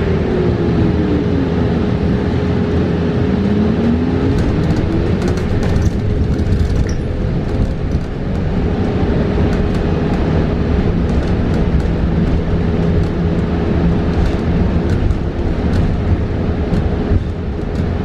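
Inside a New Flyer XE40 battery-electric bus: the electric drive's whine falls in pitch as the bus slows, then rises again as it picks up speed. Underneath are a steady road and tyre rumble, a constant high hum and light rattles.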